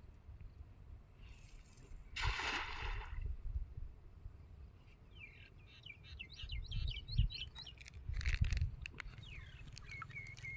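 A splash of water about two seconds in, then a small bird chirping in quick repeated calls that sweep down in pitch, with a few clicks and splashes between them. A low rumble runs underneath.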